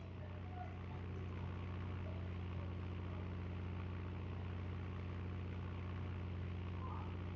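C-130 Hercules engines droning steadily, a low hum with several even tones stacked above it, getting slightly louder at first and then holding level.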